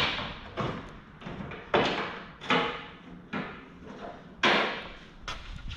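A car hood being lowered and handled to test clearance over a newly fitted engine: a run of clunks and thuds, about one a second, the loudest about two seconds and four and a half seconds in.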